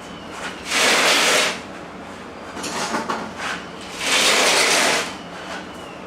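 Two harsh scraping drags, each about a second long, of a heavy load being slid across the floor.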